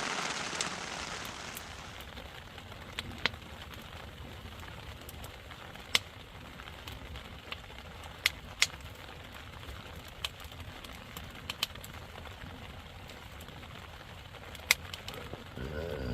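Steady rain hiss that stops about two seconds in, followed by quiet outdoor ambience broken by scattered sharp clicks and cracks.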